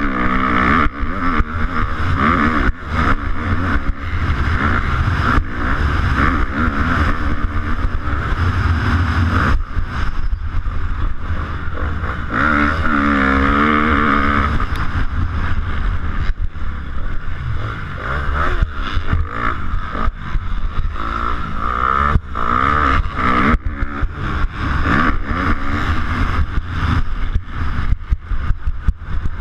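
250cc motocross bike engine revving hard and falling off again and again as it is ridden round the track, the pitch climbing and dropping many times. Frequent sharp knocks and a heavy rumble run through it.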